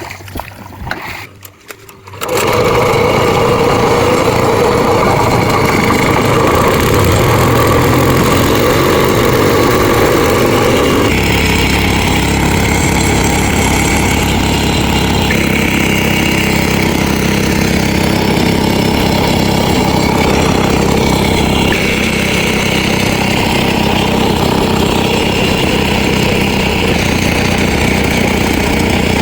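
A small engine starts suddenly about two seconds in and keeps running loud and steady, its note shifting a little later on.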